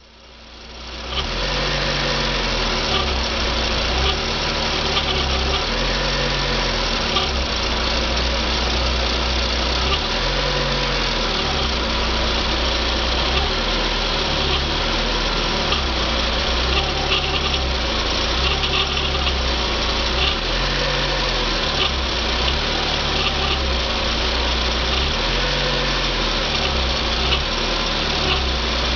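Volkswagen AP 1.8 four-cylinder engine running at low revs with a strange chirping, creaking noise and faint irregular ticks over the steady running sound. The noise appears at low rpm and persists even though the timing belt tensioner is new.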